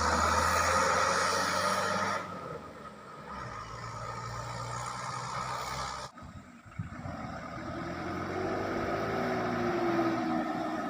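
Truck engine running. The sound drops sharply about two seconds in and almost cuts out briefly around six seconds, then comes back with a slowly wavering engine tone.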